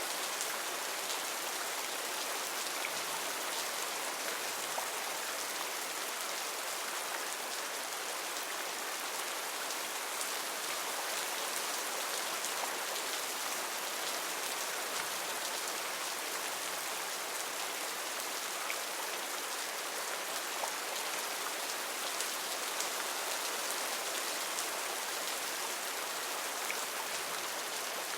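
Heavy rain falling steadily on rainforest foliage, a dense even hiss with scattered individual drop ticks.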